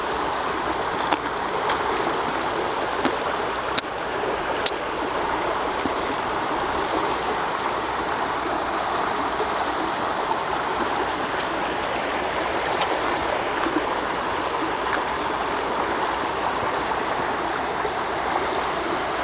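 Water flowing in a stream, a steady even rush, with a few sharp clicks in the first five seconds.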